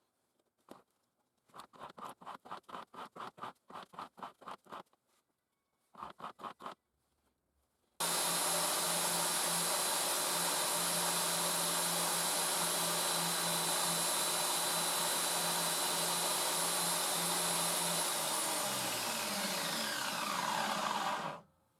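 Home-built belt grinder running at speed: a loud steady rush with a constant whine. After about ten seconds it is switched off, and its pitch falls as it spins down before it stops. Earlier there is a short run of quick rhythmic strokes, about five a second.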